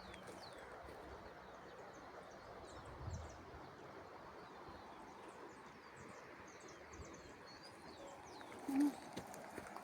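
Small birds chirping, many short high chirps over a steady outdoor background hiss, with one brief louder low sound near the end.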